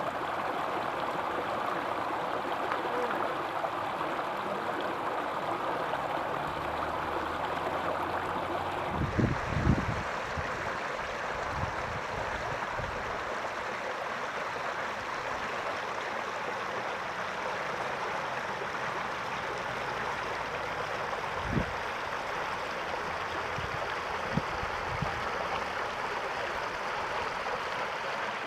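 Rainwater rushing steadily, like a stream in spate after heavy rain, with a few brief low thumps partway through.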